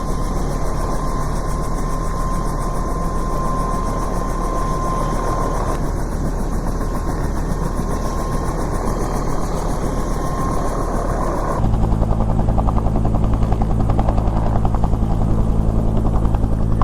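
Rescue helicopter running on the ground with a steady whine, its rotor turning. About three-quarters of the way through the sound changes abruptly to a louder, fast, even rotor thudding with a strong low hum, as the helicopter readies to take off.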